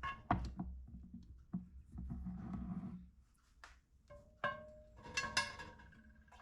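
Glass canning jars clinking and knocking together as they are handled and set down. There are several sharp clinks, two of which ring on with a clear glassy tone for about a second, the first around four seconds in and the second near the end.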